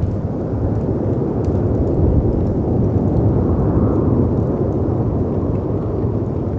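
A layered storm ambience: a steady low rumble of wind and breaking sea waves that swells gently in the middle, with faint sharp crackles of a wood fire on top.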